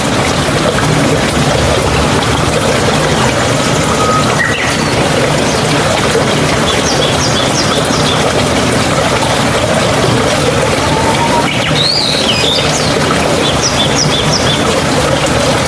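Water running and trickling steadily, a mountain stream, with small birds chirping now and then above it: short bursts of chirps about halfway through, again a few seconds later, and near the end.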